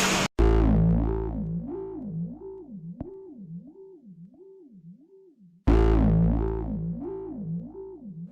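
Synthesizer sting: a deep bass hit, then a tone that warbles up and down about twice a second while it fades. The hit and warbling tone start over about two-thirds of the way through.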